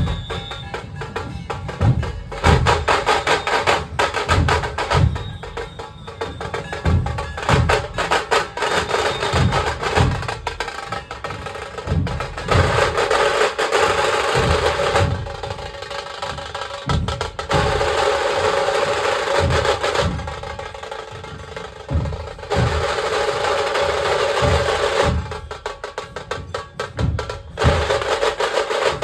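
Dhol-tasha ensemble playing: big dhol drums beat a steady rhythm of deep strokes while tasha drums add fast, sharp strikes, with several stretches of continuous tasha rolls lasting a few seconds each.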